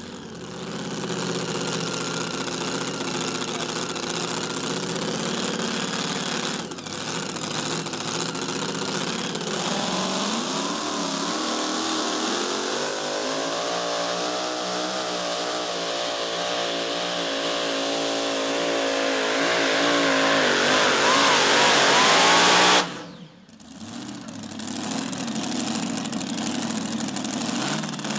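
Super modified two-wheel-drive pulling truck's supercharged Hemi engine running hard at full throttle under the load of a pull, its pitch wavering up and down. It cuts off abruptly near the end, and another truck's engine picks up right after.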